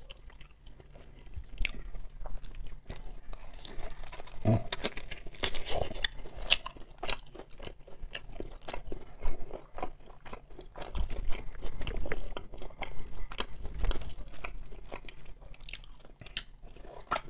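Close-miked chewing and biting of oven-baked pork neck and roast potatoes: a steady run of short mouth and teeth clicks and crunches.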